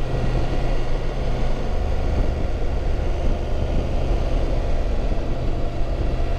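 Motorcycle engine running steadily with wind and road noise, heard from a helmet-mounted camera. It cuts off abruptly at the end.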